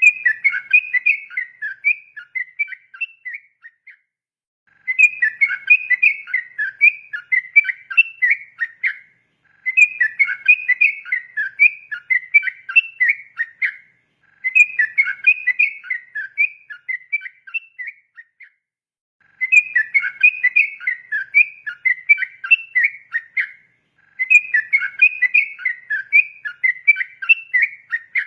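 Yellow-vented bulbul (trucukan) singing its rapid run of choppy whistled notes, in six long phrases of about four seconds each with short pauses between them.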